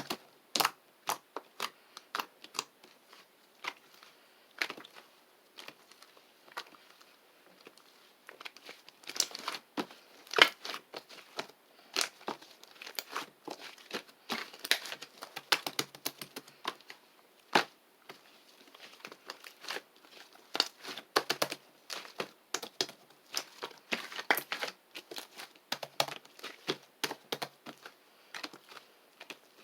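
Crinkling and rustling, as of paper or plastic being handled, in many short, irregular crackles.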